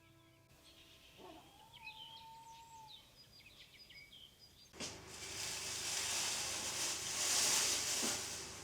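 Birds chirping and calling, one with a held whistled note. About five seconds in, a loud rushing hiss starts suddenly, swells, then dies away near the end.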